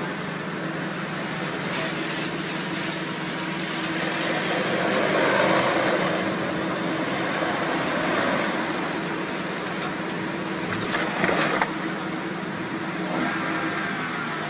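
Steady vehicle and road noise that swells in the middle, with a short cluster of sharp knocks or clatter about eleven seconds in.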